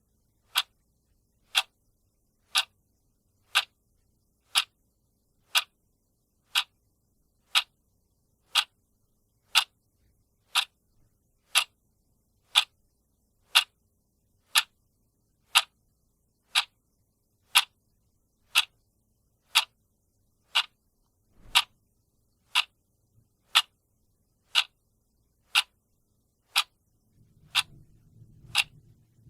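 A clock ticking steadily, one sharp tick each second. A faint low rumble comes in under the ticks near the end.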